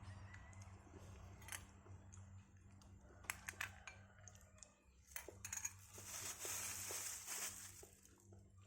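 Faint clicks and taps of small objects being handled, with a brief rustle a little past the middle.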